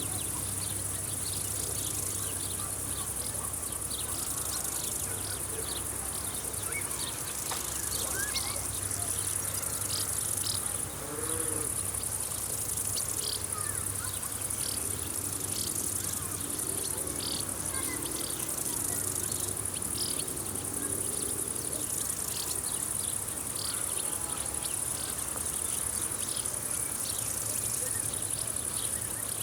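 Summer field insects chirring in a steady, high-pitched chorus, with many short sharper chirps repeating over it. A few faint bird calls and a low steady hum sit underneath.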